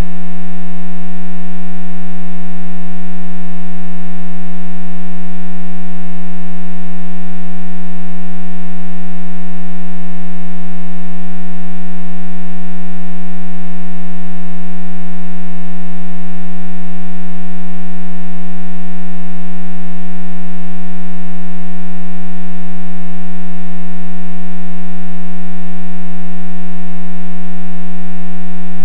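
Loud, unchanging hum at one low pitch with many overtones.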